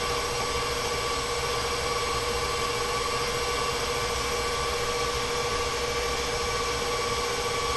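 Bowl-lift stand mixer running steadily at a constant speed with a steady whine, creaming a doubled cookie batch until it is fluffy.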